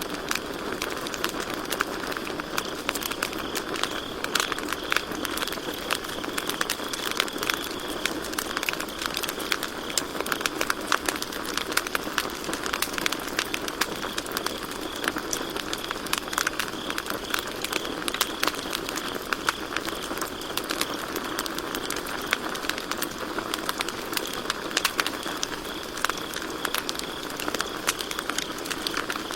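Campfire crackling and popping steadily, with many sharp snaps, while crickets keep up a steady high trill behind it.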